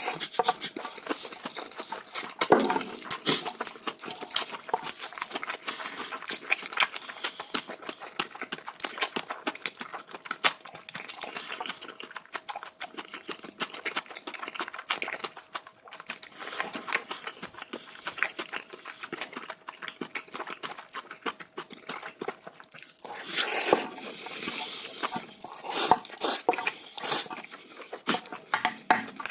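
Close-miked chewing of big mouthfuls of bibimbap: many small wet clicks and smacks, busier and louder near the end.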